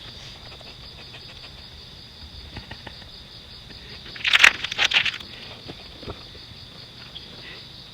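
Steady high-pitched insect chorus, with a short, loud, noisy burst of several quick strokes about four seconds in.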